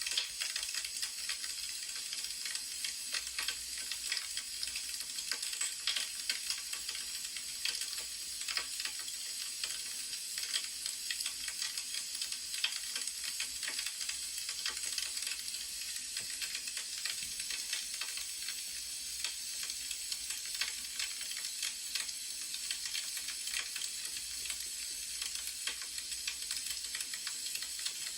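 Wood fire burning: a steady hiss with frequent small, sharp crackles and pops.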